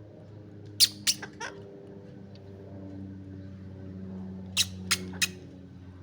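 Pet green parrot giving short, sharp chirps: three quick ones about a second in and three more near the end, over a steady low hum.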